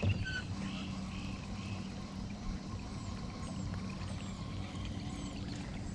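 Small jon boat motor running steadily, a low even hum that holds the same pitch throughout.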